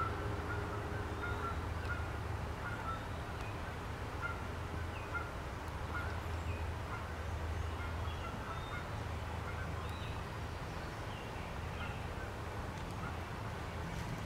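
Birds calling: many short calls repeated every second or so, with some higher chirps among them, over a steady low rumble.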